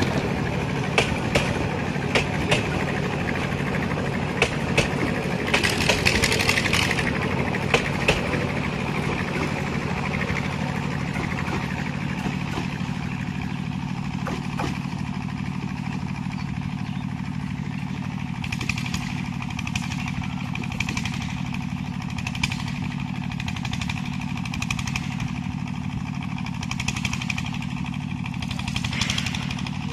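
Passenger train coaches rolling past on the rails, the wheels clacking over the rail joints with a steady low rumble underneath. The clacks come fast and sharp for the first several seconds, then grow fainter and sparser as the last coaches go by and the train moves away.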